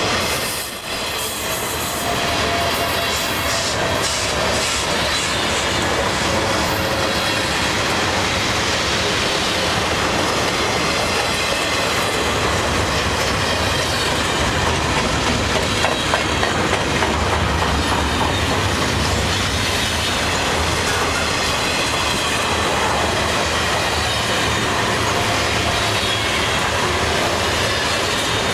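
Highway trailers on flatcars of a CP express intermodal train rolling past at speed. The wheels make a steady rush and rumble on the rails, with faint high-pitched squealing tones over it.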